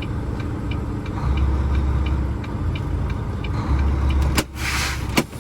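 Volvo semi truck's diesel engine running, with a light regular ticking a couple of times a second. The engine sound swells twice as the truck is worked back and forth for sliding the trailer tandems. Near the end there is a sharp knock, a short hiss, and another knock.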